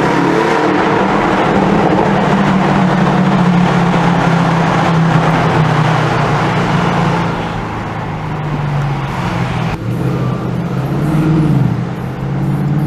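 Bentley Continental GT V8 S's 4.0-litre twin-turbo V8 with sports exhaust, giving a deep, loud drone at fairly steady revs. It eases off about seven seconds in, with a brief sharp break near ten seconds and a short dip and rise in pitch shortly after.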